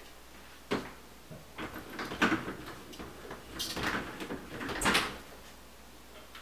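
Irregular knocks, clatters and scrapes of hard objects being handled, with a sharp knock about a second in and louder clatters around two seconds and again near five seconds.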